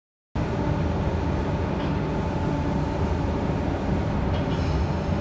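Interior noise of a moving passenger train: a steady rolling rumble with a faint steady whine, cutting in abruptly about a third of a second in.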